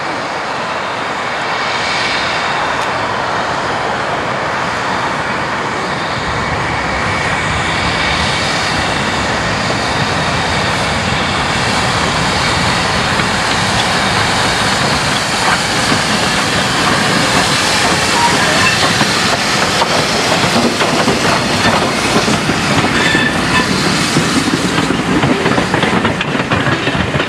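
Steam-hauled train running on the rails and growing steadily louder as it nears, with wheels clicking over the rail joints more and more from about halfway through.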